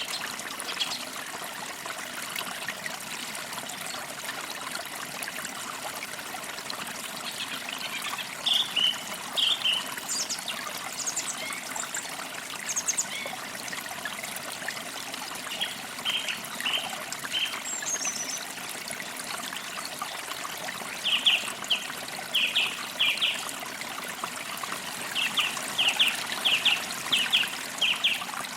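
A forest creek trickles steadily, with small birds chirping over it in short runs of quick notes. The chirps are sparse in the first half and grow more frequent in the second half.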